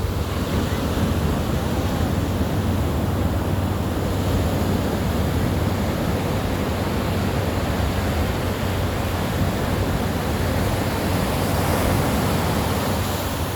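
Ocean surf: a continuous wash of waves on the shore, swelling slightly near the end.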